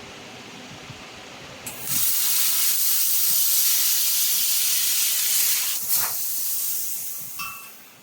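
Handheld 3000 W fiber laser machine firing on metal: a loud, steady hiss starts about two seconds in. It fades away near the end, with a brief click about six seconds in.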